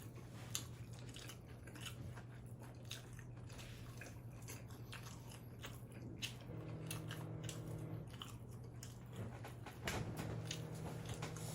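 Close-miked chewing and biting of combination pizza: a run of small wet mouth clicks and crunches. Twice, in the second half, a closed-mouth 'mm' hum of enjoyment sounds over the chewing.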